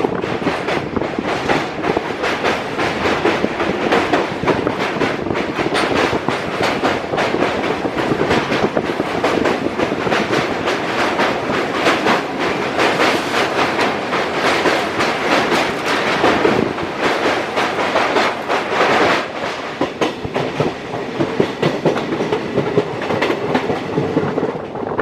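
Passenger train running along the track, its wheels clattering steadily over the rail joints with a continuous rumble and rattle.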